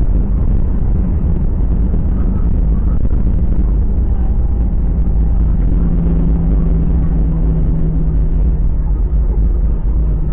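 Jet airliner cabin noise during the landing: a loud, steady low rumble of engines and airflow, with a steady hum from about five to nine seconds in.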